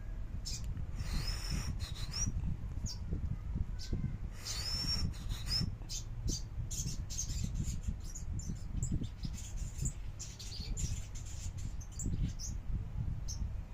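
A kept songbird singing: sharp high notes and short whistled glides about a second and four and a half seconds in, then a quick run of chips and calls. A steady low rumble runs underneath.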